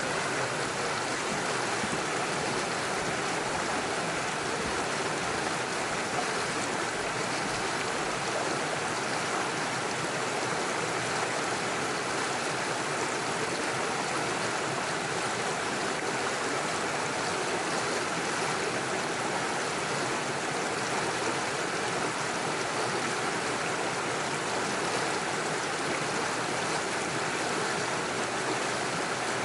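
Small forest stream rushing and splashing over stones and small waterfalls, a steady even rush of water.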